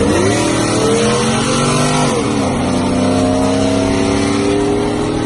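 Vehicle engine accelerating: its pitch climbs, drops sharply at a gear change about two seconds in, then climbs again more slowly.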